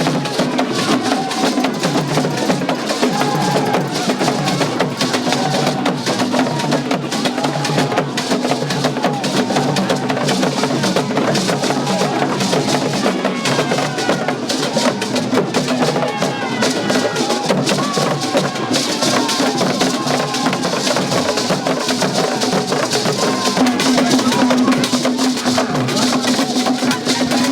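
Percussion-led festival music: drums and knocking percussion playing a dense, continuous rhythm, with a steady low note that grows louder near the end.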